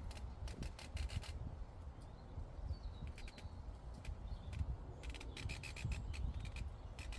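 Outdoor meadow ambience: a low wind rumble on the microphone, with three short bursts of rapid dry rasping clicks and a faint bird chirp about three seconds in.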